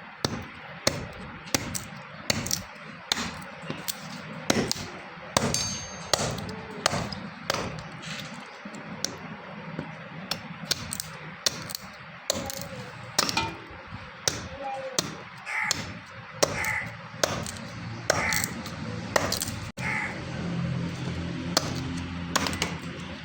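Repeated hammer blows on metal in a steady rhythm, about three strikes every two seconds, several leaving a short metallic ring.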